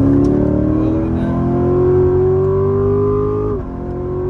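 Chevrolet Corvette Grand Sport's V8 accelerating hard at full throttle, its pitch climbing steadily, then dropping sharply near the end as the automatic shifts up a gear, and starting to climb again.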